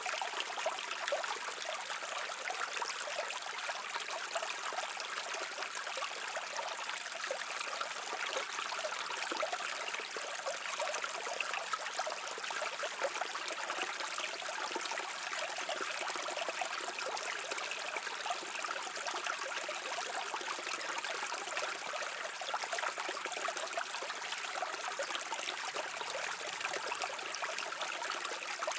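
Brook water flowing and trickling steadily: an even, hissing rush of splashing water, mostly high, with no deep rumble.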